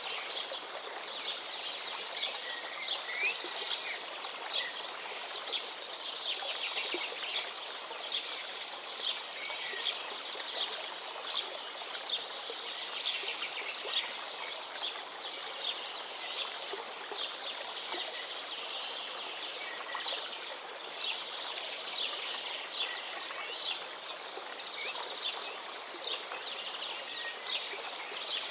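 River water flowing steadily with a constant babble of small splashes, with small birds chirping now and then.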